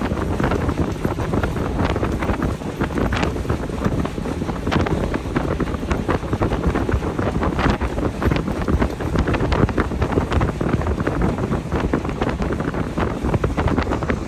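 Heavy wind on the microphone of a motorboat under way, over a steady low rumble, with frequent irregular knocks of the hull hitting the waves.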